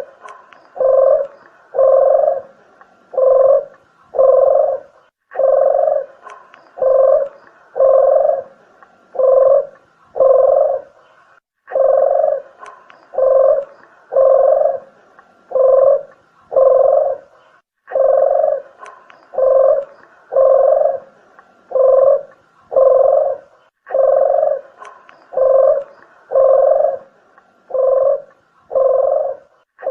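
Red collared dove (puter geni) cooing as a bird-lure call: phrases of six or seven low coos, each phrase starting about every six seconds in an even, repeating pattern.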